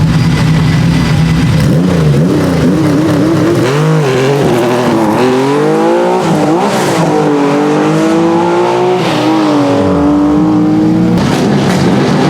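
Rally car engine run hard, its pitch climbing and dropping repeatedly through gear changes and corners, then held high for a few seconds before falling back about ten seconds in.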